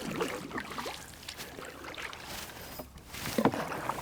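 Irregular splashing and sloshing of marsh water, as of something moving through it, with short bursts near the start and again about three and a half seconds in.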